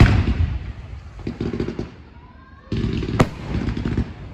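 Display fireworks going off: a loud bang at the start that fades out over a second or so, then a sharp crack about three seconds in.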